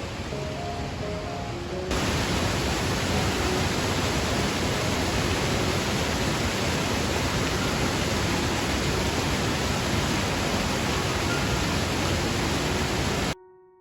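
Waterfall in spate: a loud, steady rush of falling water. It gets louder about two seconds in, and cuts off abruptly just before the end. Soft piano notes sound under the water in the first two seconds.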